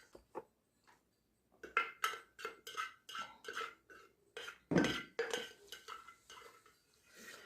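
Cutlery clinking and scraping against a plate during a meal. A string of short clinks starts about a second and a half in, with a louder knock near the middle.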